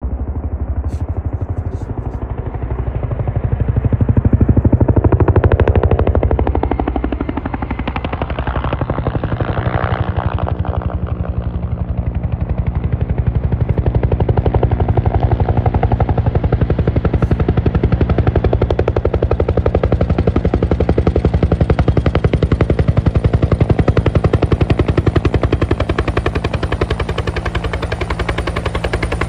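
Agusta-Bell 212 helicopter with its two-blade main rotor beating in a rapid, even pulse over a steady low hum. The sound swells loudest a few seconds in, then holds steady.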